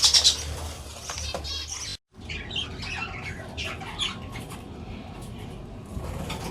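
Budgerigars chirping and squawking in quick, high, warbling calls, with a loud brief flurry at the very start.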